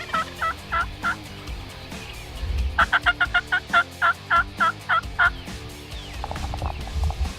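Turkey calling in runs of quick, repeated pitched notes: a run trails off about a second in, and a second run of about ten notes starts around three seconds in and slows towards its end, with a few softer notes after. Faint background music underneath.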